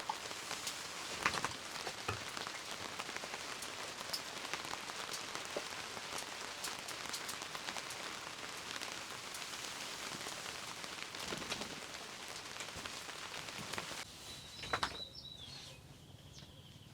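Steady rain falling, with many separate drops ticking on a surface. About fourteen seconds in it cuts off sharply to a much quieter background, where a short high bird call sounds.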